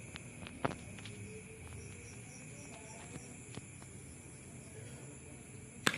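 Crickets chirping steadily in a continuous high chorus, with a few sharp clicks, the loudest near the end.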